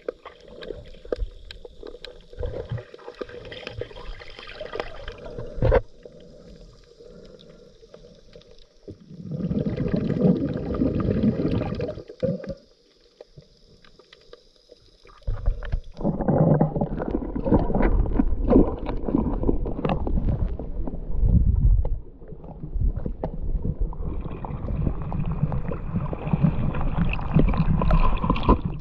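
Underwater sound of a scuba diver breathing through a regulator, picked up through a GoPro housing. Loud low rumbling bursts of exhaled bubbles come about 9 seconds in and again from about 15 seconds on, between quieter stretches.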